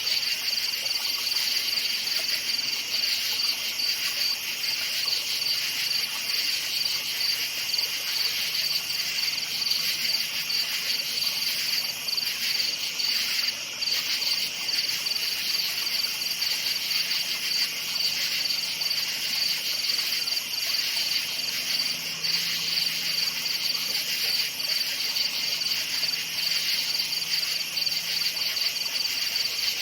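A chorus of crickets chirping: a continuous, high, finely pulsing trill.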